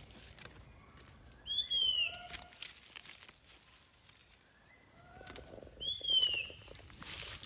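A forest bird calls twice, about four seconds apart: each call is a clear whistle slurring downward, followed by a few fainter, lower notes. Faint rustles and clicks come from hands working in the wet leaf litter.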